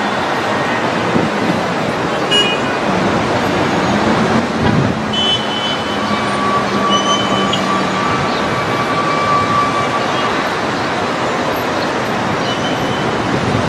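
Steady road traffic noise, with a vehicle engine briefly rising and falling in pitch about four to five seconds in.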